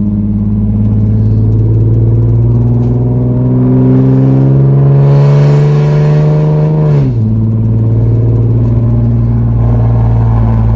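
Nissan 370Z's 3.7-litre V6, straight-piped with no muffler and no catalytic converters, droning loudly. Its revs climb slowly for about five seconds, drop suddenly about seven seconds in, then settle back into a steady drone.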